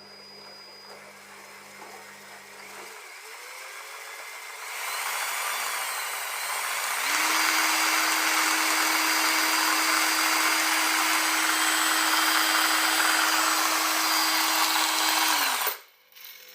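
Electric drill driving a cardboard model piston engine. It speeds up in steps over the first several seconds, runs steadily at full speed for about eight seconds, then stops suddenly with a brief falling whine near the end.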